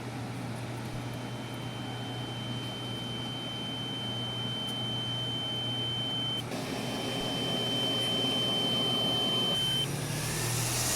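A steady low hum with a rushing background that slowly grows louder, and over it a single high, steady beep-like tone held for several seconds. The tone breaks off briefly partway through and stops near the end.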